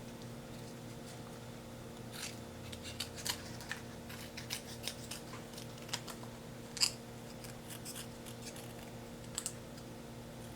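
Scissors snipping through paper in scattered short cuts, with a faint steady hum underneath.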